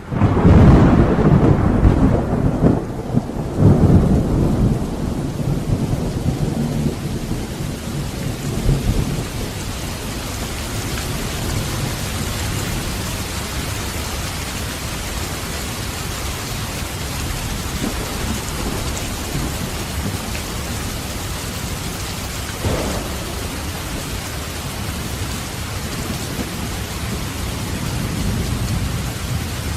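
Thunderstorm recording: a thunderclap rolls in at the start, rumbling loudly for several seconds before dying away, then steady heavy rain with a short faint crack of distant thunder a little past two-thirds of the way through.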